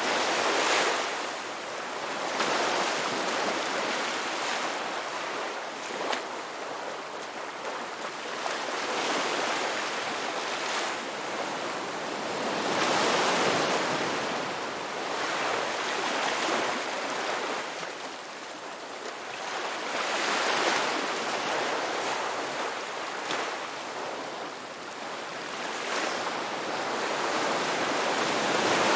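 Ocean waves breaking and washing on a beach, swelling and fading every few seconds in an uneven rhythm.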